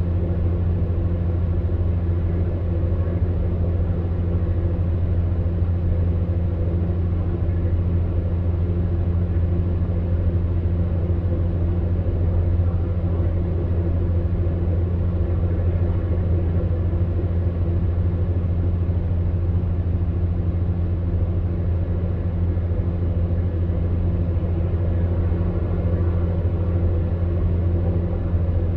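Electric fan heater running: a steady, even hum with a deep low drone under a soft rush of blown air.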